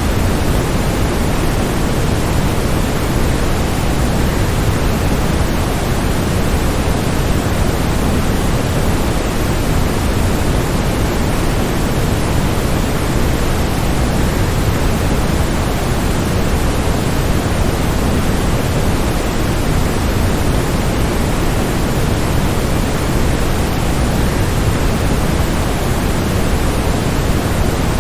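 Waterfall: the steady, unbroken rush of falling water, an even noise heaviest in the low end and fading toward the highs, with no change in level.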